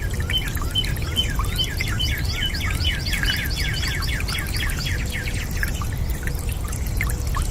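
A bird sings a fast trill of short chirps for about five seconds over a steady low rush of running water.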